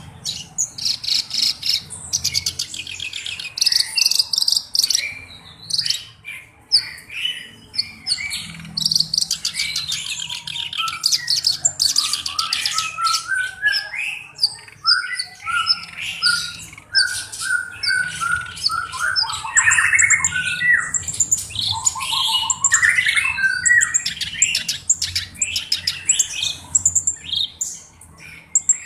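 Black-browed reed warbler (kerak basi alis hitam) in full song: a continuous, rapid and varied chatter of harsh buzzy notes and rattling trills, with a run of lower, clearer whistled notes about halfway through.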